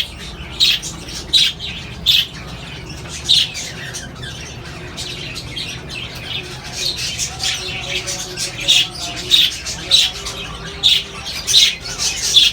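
A room full of small caged parrots calling: repeated short, shrill squawks and chatter from many birds, thinning out for a couple of seconds in the middle, over a low steady hum.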